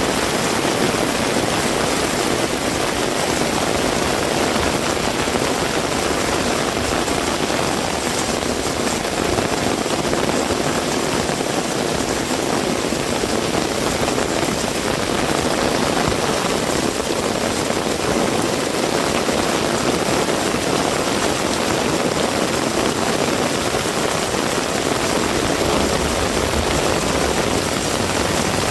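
Heavy rain falling steadily, a dense even hiss with no let-up. A low rumble comes in near the end.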